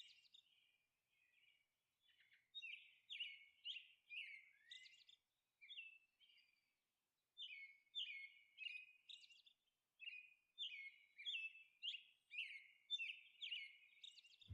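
Faint birds chirping: short chirps repeated in quick runs, with a brief lull about five seconds in.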